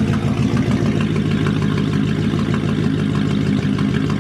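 1999 Mercedes E55 AMG's 5.4-litre V8 idling steadily, with new spark plugs just fitted in cylinders 5 and 7 to cure a misfire; the idle sounds good.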